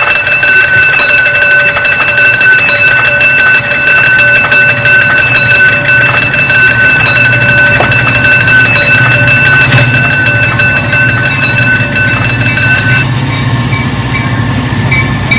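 Train sound effect: a steady rumble with rhythmic clatter under a long held chord of horn-like tones, which cuts off about 13 seconds in.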